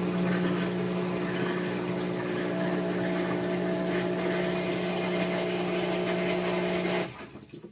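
Whirlpool WTW4816FW1 top-load washer's drain pump running with a steady hum and water rushing through it, cutting off suddenly about seven seconds in.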